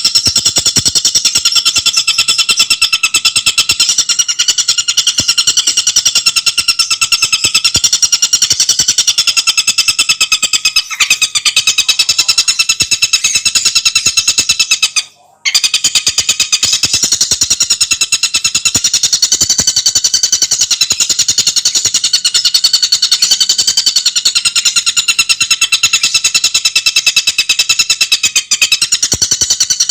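A tengkek buto bird calling in a loud, continuous rapid trill of evenly repeated notes with a steady pitch, broken once by a short gap about halfway through.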